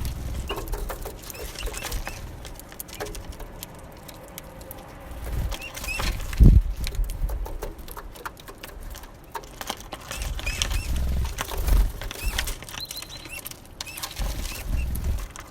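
Small birds at a feeder: rapid clicks and taps of beaks and feet on the feeder, with short high chirps scattered throughout. Bursts of low rumble come and go.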